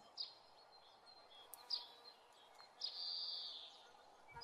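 A bird calling three times, high-pitched, each call a quick falling note running into a held note, the last call the longest, over a faint steady background hiss.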